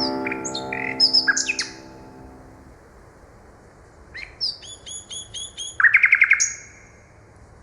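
Nightingale singing two phrases of quick whistles and chirps, the second ending in a fast run of repeated notes, the loudest sound here. A sustained piano chord fades out during the first few seconds.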